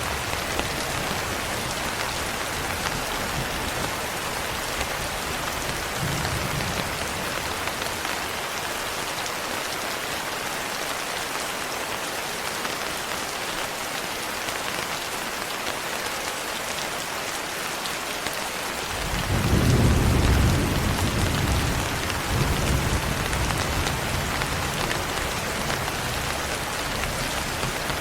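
Steady rain falling, with a low rumble of thunder that swells about two-thirds of the way in and then slowly fades.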